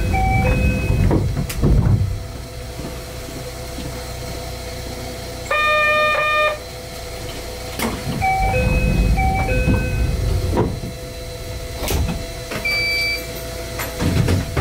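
Cab of a 260 Series narrow-gauge train standing at a station: a low rumble of the stopped train swells and eases, with two short phrases of electronic chime tones, one at the start and one about eight seconds in. A single buzzer tone of about a second sounds around halfway, and a short beep near the end.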